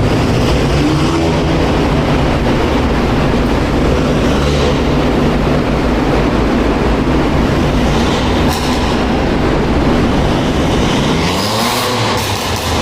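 Car engines running with a steady low drone. About eleven seconds in, one engine revs up and drops back.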